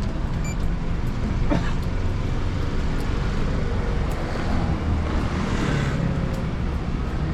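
Street traffic with a steady low rumble, heard while riding an electric scooter; a louder vehicle swells past about five and a half seconds in.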